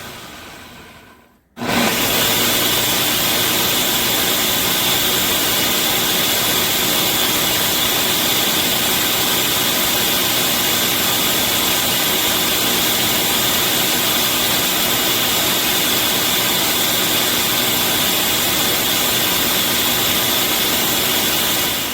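Hamilton Beach Wave Crusher 700-watt blender running loudly. Its motor winds down almost to silence about a second and a half in, starts up again at once and runs steadily, then begins winding down near the end.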